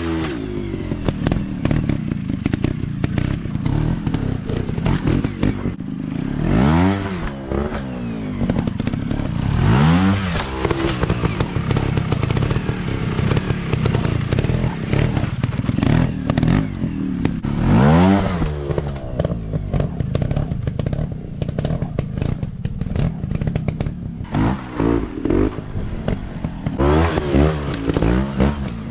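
150 cc dirt bike engines running and revving hard again and again, each rev rising and falling in pitch, with clattering knocks in between.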